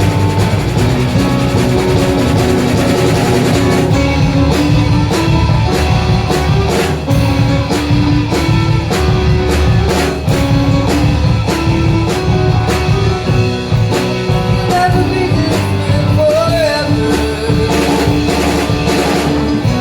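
Live rock band playing: drum kit keeping a steady beat over guitar, bass and sustained chords, the drumming filling in from about four seconds in.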